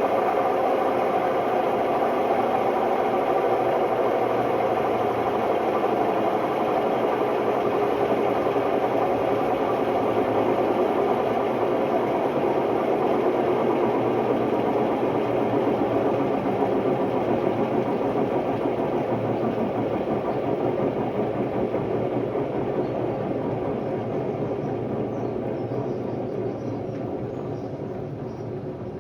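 Hotpoint Ultima WMD960 washing machine spinning, its drum running with a loud, rough noise from bad drum bearings. The noise starts to fade over the last several seconds as the drum slows.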